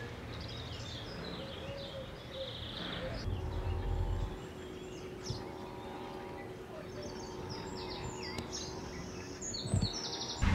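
Songbirds chirping and singing over a quiet, steady outdoor background, with a faint steady hum through the middle.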